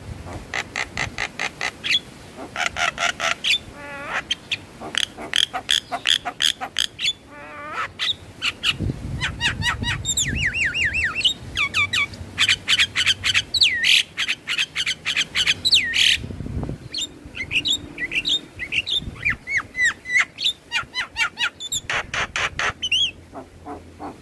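Javan myna song: bursts of rapid clicking chatter, then a run of quick swooping whistles in the middle, and more clicking chatter near the end.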